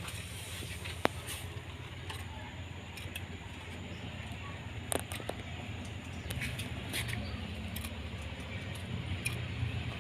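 Low steady background hum with faint hiss and scattered short clicks and ticks, the sharpest about a second in and another pair about halfway through.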